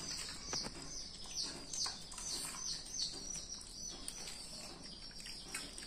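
Small birds chirping: a steady run of short, high, falling chirps, about two a second, with a few faint clicks among them.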